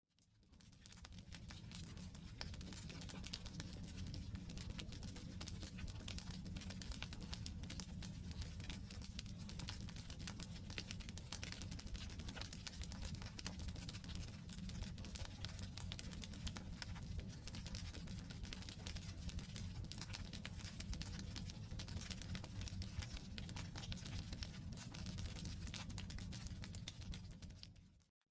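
Wood campfire burning, with dense, irregular small crackles and snaps from the logs over a steady low noise of the fire. The sound dips out briefly at the very start and again at the very end.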